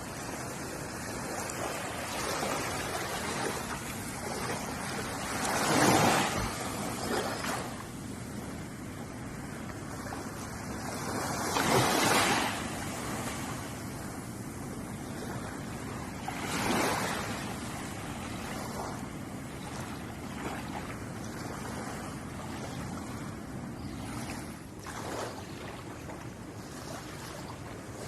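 Ocean waves washing onto a shore: a steady hiss of surf, with a wave surging and breaking every five or six seconds, three larger ones and then a smaller one near the end.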